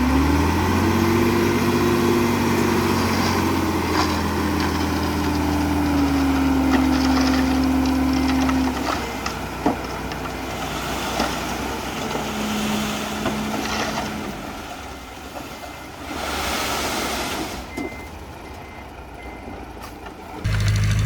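A heavy machine's diesel engine revs up sharply and holds a high, steady pitch for about eight seconds, then drops away. A quieter stretch of mixed machine noise with a few scattered knocks follows.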